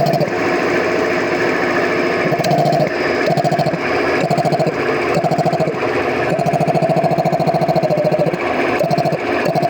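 10 hp piston air compressor, fitted with a replacement Poma compressor head, running on test: a fast, even pulsing from the pumping strokes, with a lower hum that cuts in and out every second or so.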